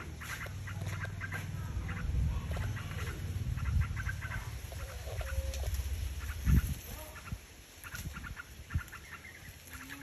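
Birds calling in a leafy tree: repeated quick clusters of short, high chirps, over a low rumble on the microphone, with one loud thump about six and a half seconds in.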